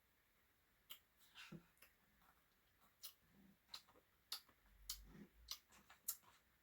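Faint, scattered clicks of a spoon against a Blizzard cup, with soft eating sounds between them, as another spoonful of the ice cream is taken.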